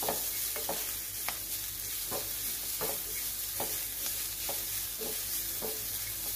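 Grated coconut and coconut pieces sizzling in ghee in a small kadai, stirred with a wooden spatula. A steady sizzle runs under short scraping strokes of the spatula against the pan, about one to two a second.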